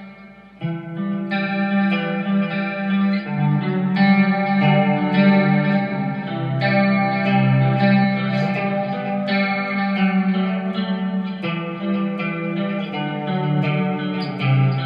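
Electric guitar played through an M-Vave MK-300 multi-effects preset: chords ring out and change about once a second, starting after a brief gap about half a second in.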